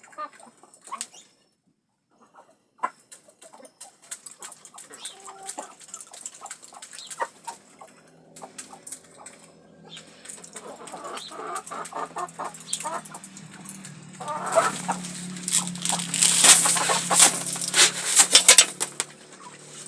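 Chickens feeding, clucking and pecking at grain, with sharp pecking taps that grow dense and loud over the last five seconds.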